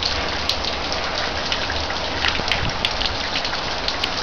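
Steady rain falling, with frequent sharp taps of drops striking close by.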